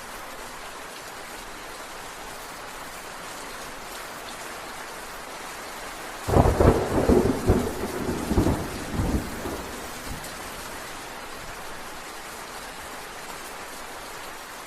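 Steady heavy rain, with a thunderclap about six seconds in: a sudden crack followed by several rolling rumbles that die away within about four seconds.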